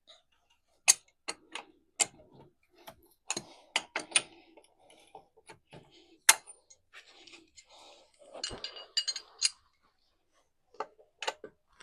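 Metal hand tools clinking against the car's front wheel as the wheel nuts are loosened: a series of sharp, separate clicks and clanks, then a short jangling rattle about eight and a half seconds in.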